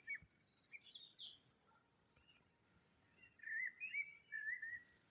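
Faint songbird calls: a few thin chirps near the start, then a short warbling run of song notes in the second half, over a steady high hiss.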